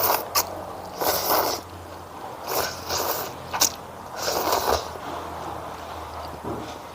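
Eating sounds: chewing and mouth noises in four bursts about a second and a half apart, with a couple of sharp clicks between them.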